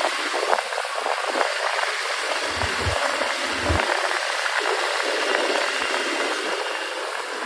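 Steady rushing wind and road noise heard while riding a motorcycle, with a few brief low thumps about three seconds in.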